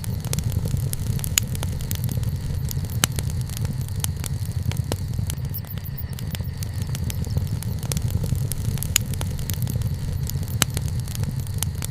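Campfire burning, wood crackling and popping in sharp, irregular snaps over a low steady rumble.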